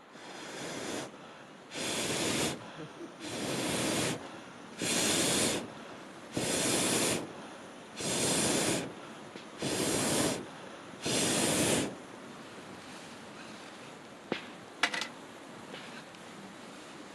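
Someone blowing on a campfire in eight even breaths about a second and a half apart, each a rush of air noise. After a short gap, burning wood gives a couple of sharp pops.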